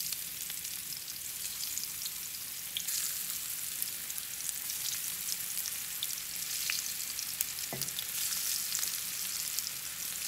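Burro banana fries frying in hot avocado oil in a cast-iron skillet: a steady sizzle with scattered pops and crackles, a little louder from about three seconds in.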